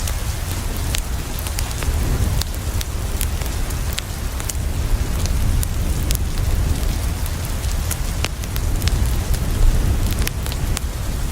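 Steady rain falling on a window, mixed with a wood fire crackling: sharp pops scattered throughout over the even hiss of the rain, with a steady low rumble underneath.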